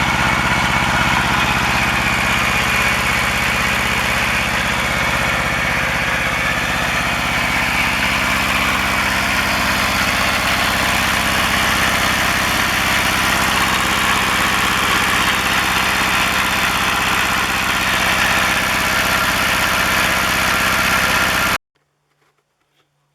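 Kubota Z750 two-cylinder diesel in a Kubota L175 tractor running steadily at idle, loud enough to drown out speech, on its first start in two to three years. It stops abruptly near the end.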